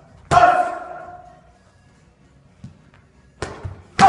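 Hard punches landing in a boxing workout: a strong blow about a third of a second in, a lighter one near the end and a loud one right at the end, each followed by a ringing tail that fades over about a second.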